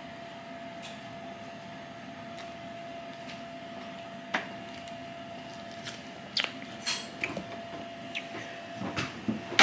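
Scattered light clicks and taps of small objects being handled, a few at first and more frequent over the last few seconds, over a faint steady hum.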